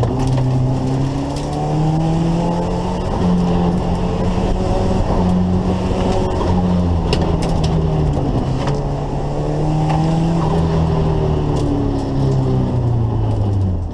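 Turbocharged 2.3-litre B23 four-cylinder engine of a 1980 Volvo 242, heard from inside the cabin during an autocross run. Its pitch climbs and falls several times as the car accelerates hard and then slows for the cones.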